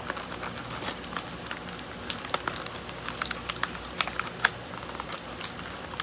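Diecast toy car packaging handled by hand: plastic blister and card crinkling with many irregular sharp clicks and crackles.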